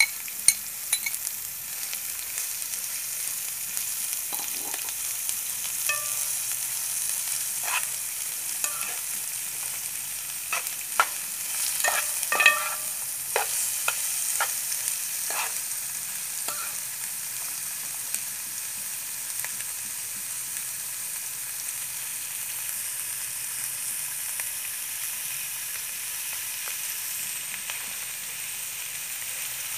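Sliced onions sizzling steadily in a wide pan as they fry, with a metal spoon stirring them and clinking against the pan. The clinks come most often in the first half.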